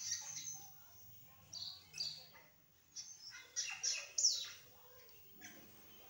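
Small bird chirping in several bursts of high, quick notes, some sweeping downward; the loudest burst comes about three to four seconds in.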